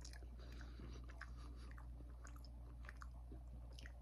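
A person chewing a mouthful of barbecue-sauced meat close to the microphone: faint, scattered wet mouth clicks, over a steady low hum.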